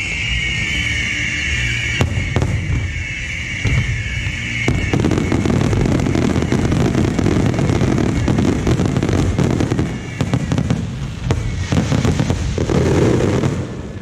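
Aerial fireworks display: rapid bangs and crackling, thickening into a dense, continuous barrage about five seconds in. A high, wavering sound runs over the first five seconds.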